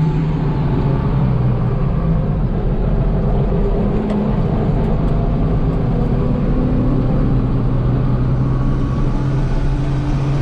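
Tractor engine running steadily, heard from inside the cab, its pitch shifting slightly.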